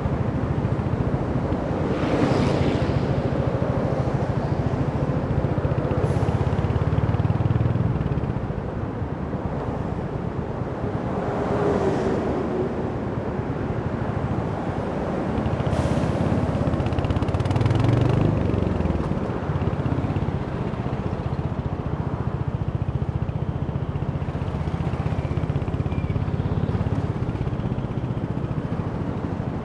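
Royal Enfield Hunter 350's single-cylinder engine running as the motorcycle rides along, with road and wind noise. The loudness rises and falls with the throttle, and there are a few brief whooshes.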